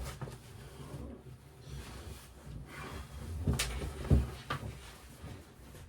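Handling noise with a few knocks and thumps, the loudest about four seconds in.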